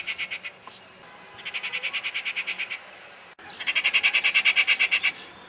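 A bird's rapid chattering call, heard as runs of sharp notes at about a dozen a second. One run fades out near the start, a second follows about a second and a half in, and the loudest comes near the end.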